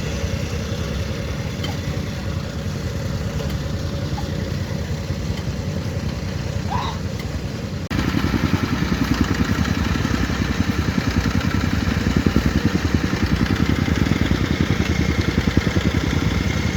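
An engine running steadily. About halfway through, the sound cuts abruptly to a louder, rougher engine with a fast pulsing throb.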